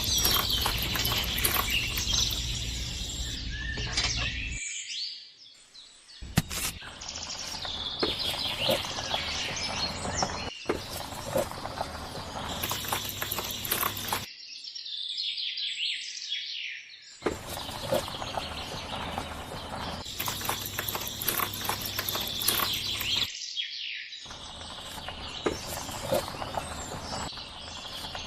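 Birds chirping and tweeting in several stretches that start and stop abruptly, with a low steady hum under some of them.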